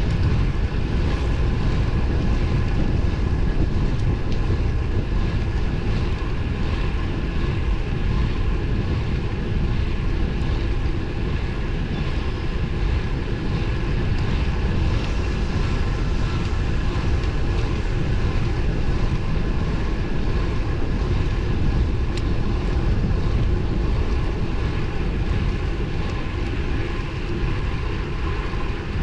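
Steady wind rush and low rumble on the microphone of a road bike ridden at speed, with road and tyre noise underneath, unbroken throughout.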